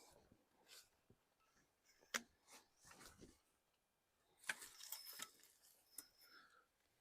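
Faint crackles and rustles of footsteps through leaf litter and twigs on a forest floor, with a sharper snap about two seconds in and a denser patch of rustling past the middle.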